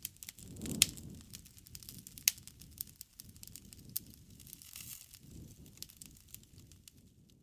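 Wood campfire crackling, with irregular sharp pops and snaps over a low, soft rush of the flames. The loudest pops come about a second in and again just after two seconds.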